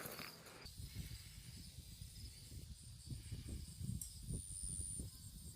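Faint outdoor ambience: steady insect chirring high up, with scattered low rumbling on the microphone.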